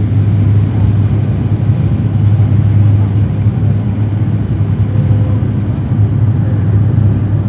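Dash 8 turboprop airliner's engines and propellers droning steadily: a loud, even low hum that does not change.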